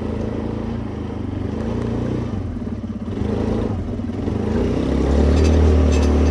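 Small vehicle's engine running as it is driven, with some rattling; the engine gets louder about five seconds in.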